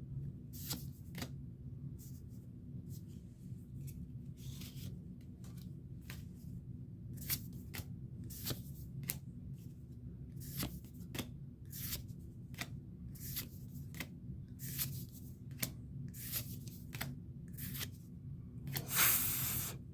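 Trading cards being handled and flicked through one by one: a string of quick paper rustles and slides, with a longer, louder rustle near the end.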